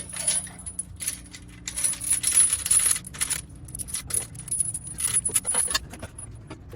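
Metal chain rattling and clinking in irregular bursts as it takes the weight of a transaxle being lifted into place.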